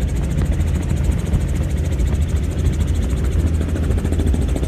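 Helicopter in flight, heard from aboard: a steady, loud engine and rotor rumble with a fast, even beat.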